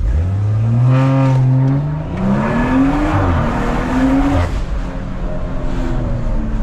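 Turbocharged B58 inline-six of a Stage 2-tuned BMW 440i pulling hard under acceleration, heard from inside the car. The engine note climbs in pitch, drops at a shift about two seconds in, climbs again twice with a loud rush of exhaust noise, then eases off about four and a half seconds in.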